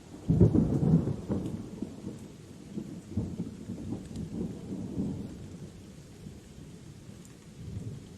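Thunder over steady rain: a loud, deep thunderclap breaks about half a second in and rumbles away in rolling swells for several seconds, with a fainter rumble near the end.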